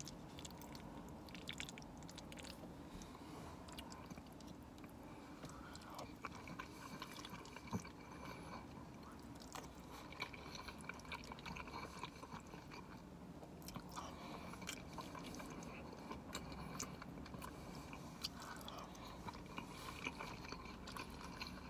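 Faint close-up chewing of buffalo mac and cheese, with many small scattered clicks of mouth and fork.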